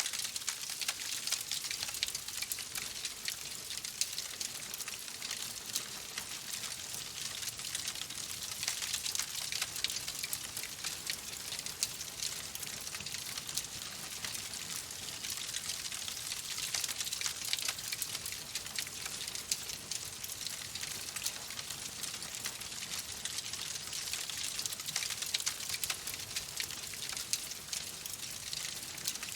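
Wood fire crackling steadily in a fireplace: a dense run of small pops and snaps over a constant hiss.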